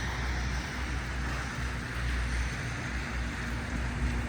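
Steady city street noise on a wet morning: a low rumble of traffic with an even hiss over it.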